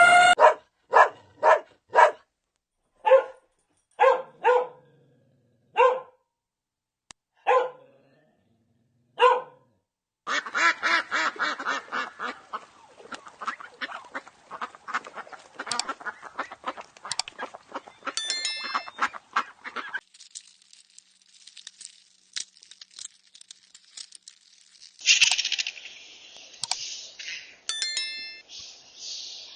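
Animal calls: about nine short, separate calls roughly a second apart, then a dense stretch of many overlapping calls that stops suddenly, and after a quiet gap a hissing noise with a few high chirps.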